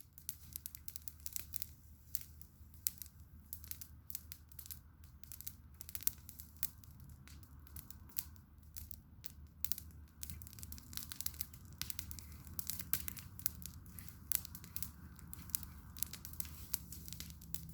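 Campfire crackling: burning wood popping and snapping in quick, irregular clicks over a low steady hum.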